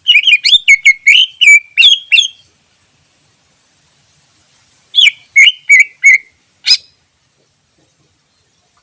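Cucak ijo (greater green leafbird) singing: a quick run of about eight sharp, swooping whistled notes, then after a pause of over two seconds a shorter run of about five, ending on one sharp high note.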